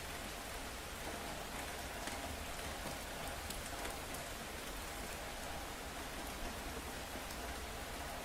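Steady rain falling on hard surfaces, with scattered individual drops ticking through the even hiss.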